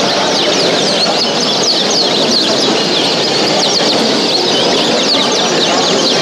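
Many caged songbirds at a bird show chirping and calling at once, a dense overlapping chatter of short, high, falling chirps over a steady hall din.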